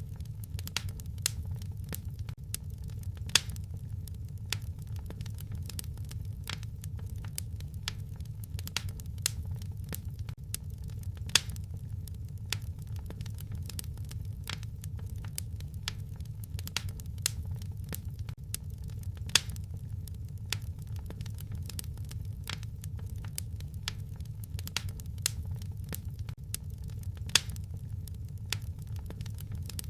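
Wood fire in a fireplace crackling, with a steady low rumble of the flames under a stream of small, irregular pops and snaps. A few louder pops stand out, about every eight seconds.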